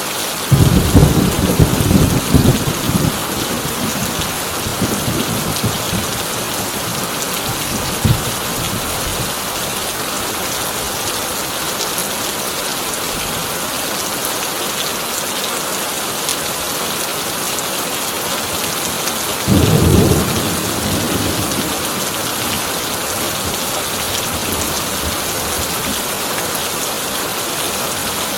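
Heavy rain drumming steadily on a corrugated tin roof, with a loud thunder rumble starting just after the beginning and fading over several seconds, a short crack about 8 seconds in, and a second, shorter rumble about 20 seconds in.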